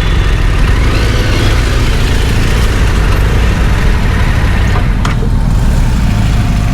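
Off-road motorcycle running under way, a steady dense rumble mixed with a broad rushing noise.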